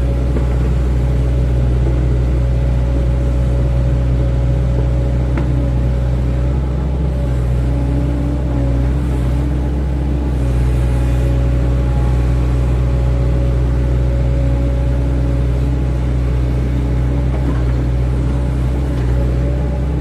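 Hydraulic excavator's diesel engine running steadily under work, with a steady whine over the low drone.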